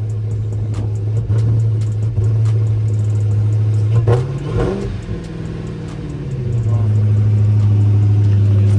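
Dodge Charger Scat Pack's 392 HEMI V8 idling, revving up once about four seconds in and dropping back, then idling steadily again.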